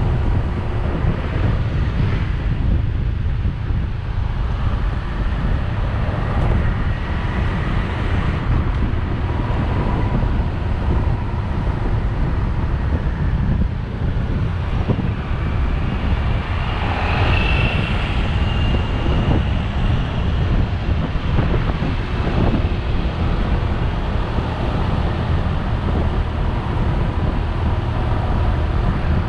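Wind buffeting the microphone of a moving motorbike, a steady low rumble, with the bike's engine running underneath.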